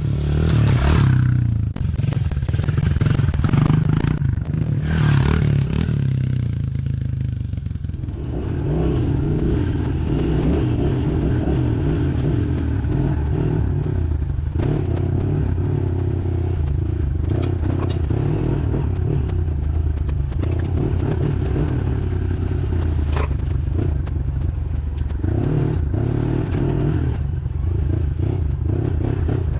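Honda 110 dirt bike engine running, rougher and louder in the first few seconds, then settling into a steady run.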